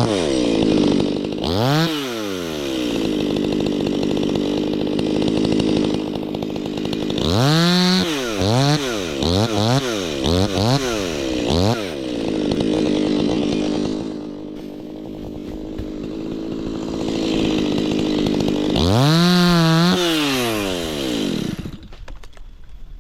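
Stihl MS 180 two-stroke chainsaw idling and being revved: one rev near the start, a run of about five quick throttle blips midway, and a last rev before the engine cuts off suddenly near the end.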